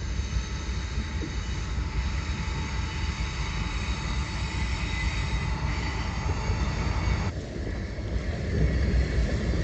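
Freight train of hopper cars rolling across a steel truss bridge: a steady low rumble with thin high squealing tones from the wheels on the rails. About seven seconds in it cuts to wind on the microphone and water.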